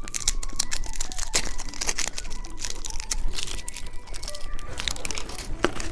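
Plastic candy packaging crinkling and rustling as it is handled and opened, with many sharp crackles.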